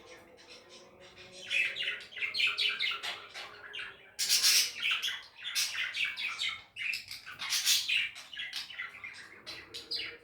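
Budgerigars chattering and squawking in quick, broken runs of high calls, quieter at first and denser and louder from about four seconds in.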